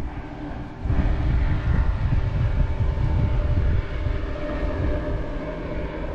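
Wind buffeting the microphone in a strong gust that starts about a second in and eases off near four seconds, over a steady, distant engine drone.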